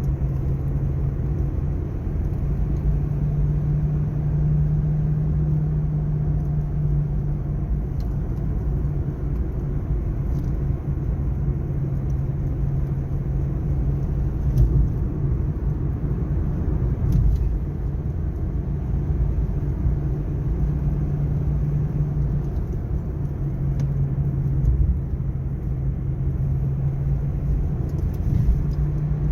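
Mazda2 driving, with road rumble and a steady low drone that swells and fades: the abnormal noise from around the suspension, which grew louder over time and was traced to a worn hub bearing at over 135,000 km.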